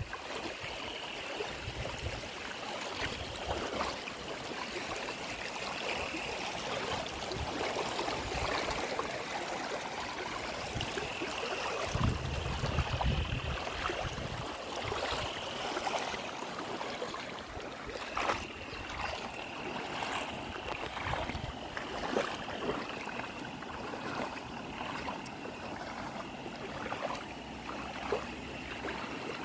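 River swollen after heavy rain, its water rushing steadily. A faint high steady tone comes and goes over the rush several times.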